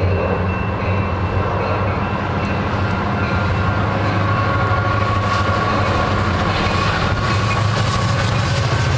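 A train running, with a steady low diesel locomotive engine drone over continuous rumble and rail noise.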